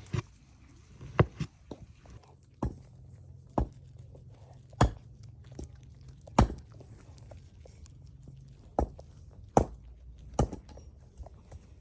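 A series of sharp knocks, roughly one a second and unevenly spaced, over a low steady hum.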